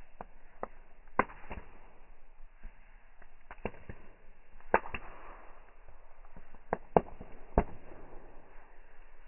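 Bonfire crackling: a low steady rush broken by irregular sharp pops and cracks, several coming in quick pairs.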